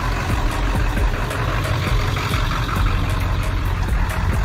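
Car engine running steadily with a low hum, heard from inside the car's cabin.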